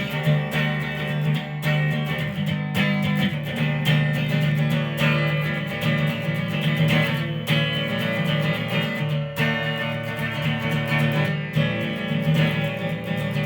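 Instrumental guitar passage of a song, strummed guitars in a steady rhythm.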